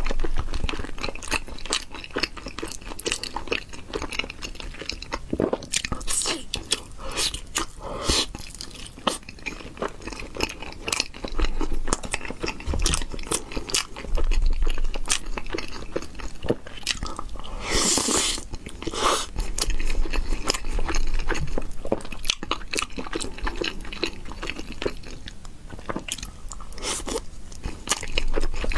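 Close-miked chewing and biting of sauced grilled eel and rice, with many short crisp clicks and crunches. One louder rushing sound about two thirds of the way through.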